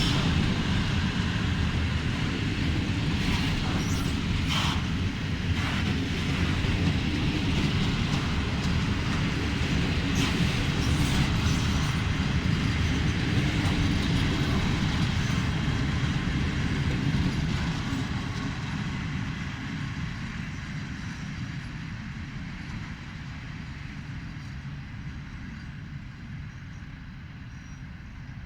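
Freight train rolling past, its wagons rumbling on the track with a few sharp clicks, the sound fading away over the last third.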